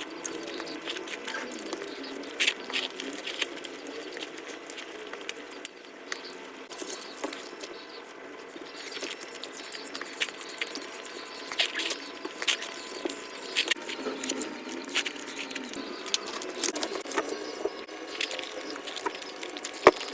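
Close-miked mouth eating sounds played back at five times speed: a fast, high-pitched chatter of chewing, smacking and wet clicks, with one sharper click near the end.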